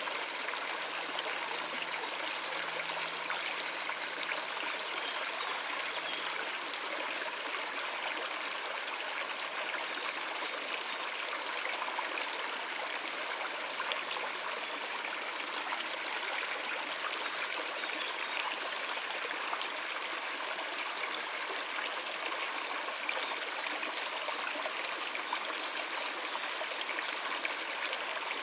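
Shallow river water running steadily over rocks, a continuous even rushing and trickling. A few faint, brief bird chirps come in near the end.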